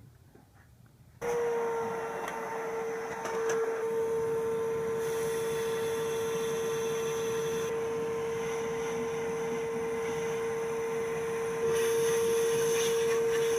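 A machine running with a steady whine and a hiss, starting abruptly about a second in and getting slightly louder near the end.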